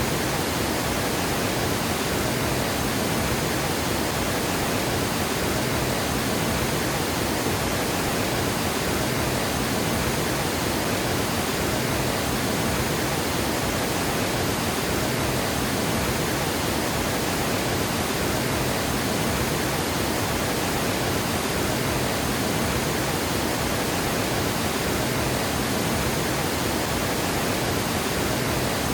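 Water pouring over a dam spillway: a steady, even rush with no let-up.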